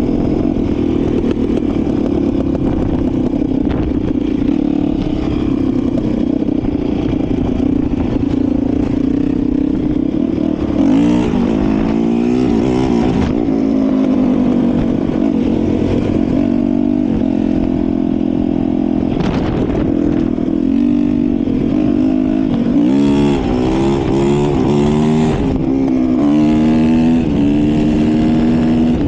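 Motorcycle engine running steadily, revved up and down about a third of the way through and again in a rapid series past three quarters of the way.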